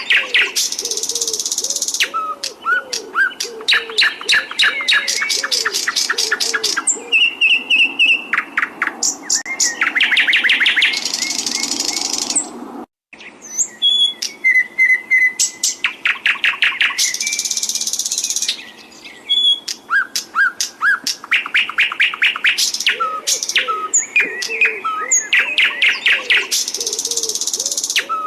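Songbird song recording: fast rapid-fire trills and long rolls alternate with chirps and rising whistled notes. A lower, repeated warbling phrase runs under it at times. The sound cuts out briefly about halfway through.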